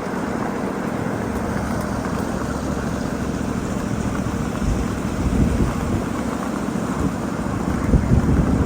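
A 7.5-inch gauge ride-on miniature freight train rolling along the track, a steady rumble of wheels on rail with a few louder knocks.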